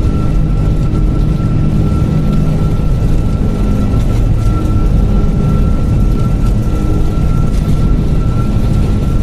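Airbus A330 airliner heard from inside, with its jet engines running at high power shortly after takeoff: a steady heavy rumble with a thin, steady high whine over it.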